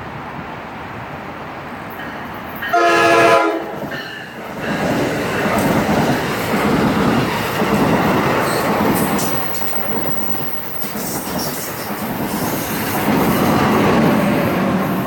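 Train horn sounding one short blast, then a train rolling past with steady wheel and rail noise.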